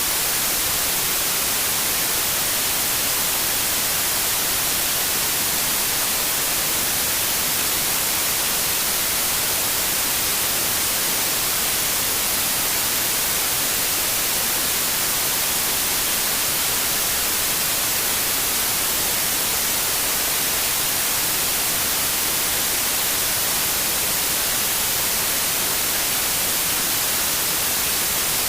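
Synthetic white noise: a steady, even hiss with most energy in the high frequencies and no change throughout.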